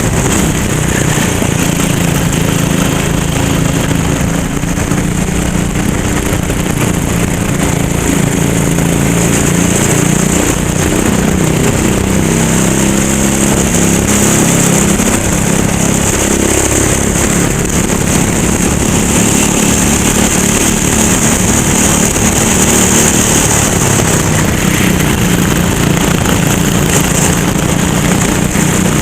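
Rental go-kart engine running hard during a race, its pitch repeatedly rising and falling as the kart accelerates and lifts off through the corners.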